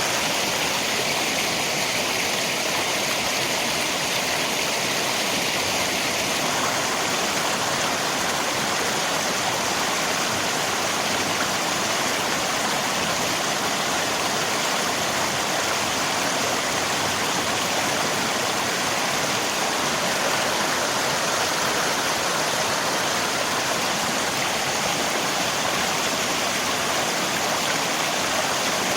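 Rain and a river: a steady, even rush of flowing water.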